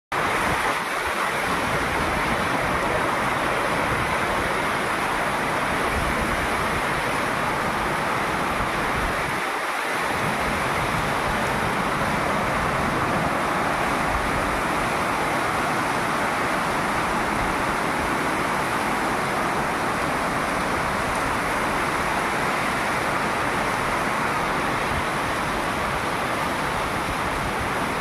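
Heavy typhoon rain pouring down in strong wind, a steady dense rush with an uneven low rumble from the gusts.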